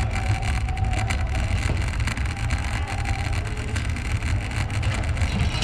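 Wind buffeting the microphone of a camera carried on a moving ride, a steady low rumble with rolling tyre noise underneath.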